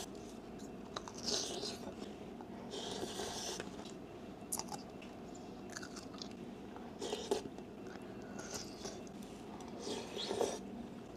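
Close-miked chewing of bamboo shoot spears, with short crisp crunches every second or two.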